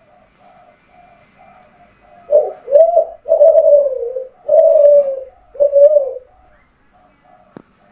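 A Kelantan-strain spotted dove (derkuku) singing its cooing song: soft faint notes at first, then about two seconds in a phrase of five loud, low coos, the third drawn out longest. A single click sounds near the end.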